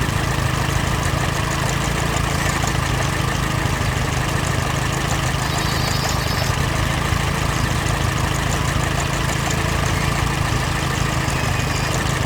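Tractor engine running steadily at a constant pitch, an idling engine sound effect.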